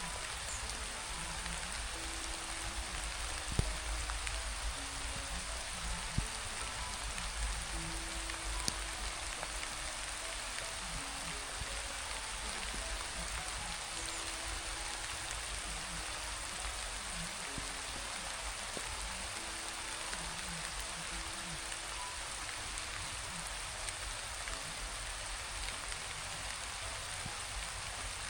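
Steady rain falling, an even hiss, with a few sharp knocks in the first nine seconds or so.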